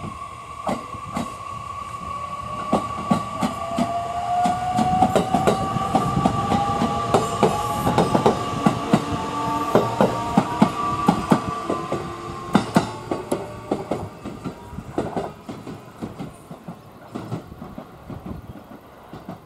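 JR West 227 series electric train passing close by. Its wheels click over the rail joints, loudest and thickest in the middle as the cars go past, over a whining tone and a second whine that rises in pitch. The sound fades as the train moves away.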